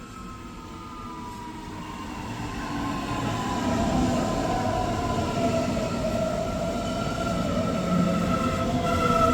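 Electric train approaching along the track, growing steadily louder, with a whine of several tones that slowly falls in pitch.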